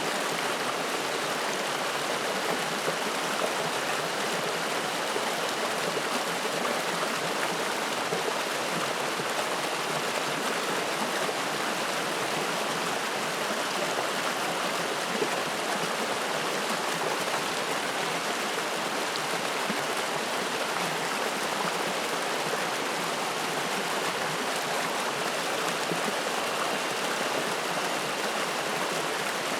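Spring-fed mountain stream splashing and rushing, a steady, even rush of water.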